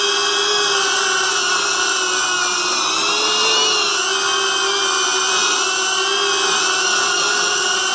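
Cinewhoop FPV drone's brushless motors and ducted propellers whining steadily, the pitch wavering slightly as the throttle shifts.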